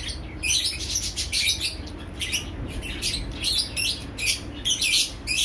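Small bird chirping continually: rapid, high, short chirps in clusters, a few a second.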